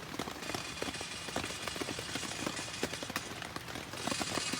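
Rain pattering, a steady hiss full of irregular taps of drops, which grows louder about four seconds in.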